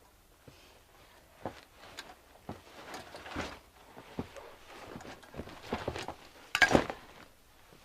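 Irregular knocks, clicks and rustling of objects being handled, with a louder clatter about two-thirds of the way through.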